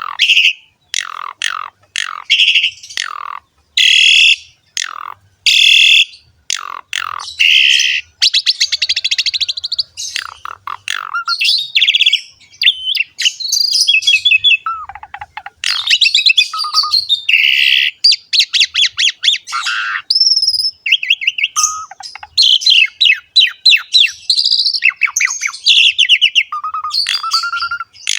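Asian pied starling (jalak suren) singing hard and without letup, a run of loud chattering phrases, whistles and rapid trills. The phrases come in short spaced bursts at first and run together more densely from about eight seconds in.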